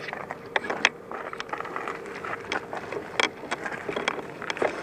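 Irregular metallic clicks and rattles from a bicycle being handled and ridden, the ratchet-like ticking of its mechanism.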